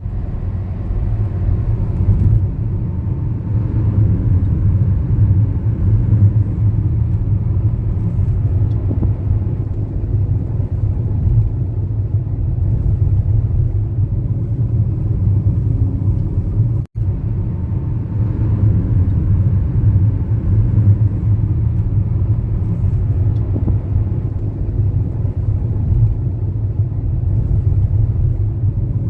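Cabin noise inside a Hyundai Aura S CNG sedan cruising at 100 km/h on a highway, windows closed and AC running: a steady low road-and-tyre rumble. It cuts out for an instant partway through.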